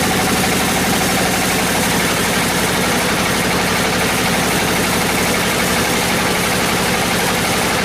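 A large engine running steadily, with a fast even pulse in the low end and no change in load.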